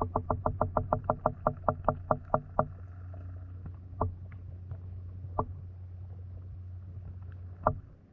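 Air bubbling out of a submerged selfie stick, heard underwater through a GoPro. A fast, even run of bubble pops, about five a second, slows and stops about two and a half seconds in. Single pops follow every second or two as water floods the hollow stick.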